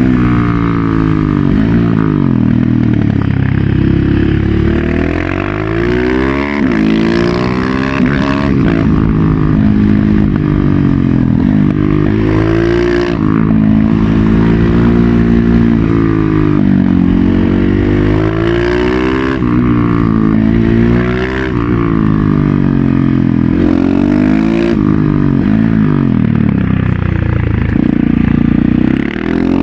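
KTM 690 SMC-R's single-cylinder engine through a Leo Vince Evo One full exhaust, loud, while riding: the pitch climbs under acceleration and falls back again and again with gear changes and throttle lifts.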